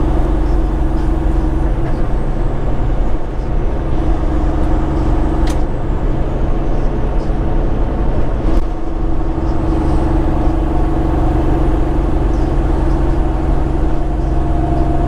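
Semi-truck engine and road noise heard inside the cab while cruising at steady speed, with a couple of faint clicks midway.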